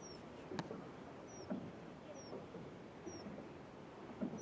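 A small bird repeating a short, high, falling chirp about once a second, faint against quiet open-air background, with a single click about half a second in.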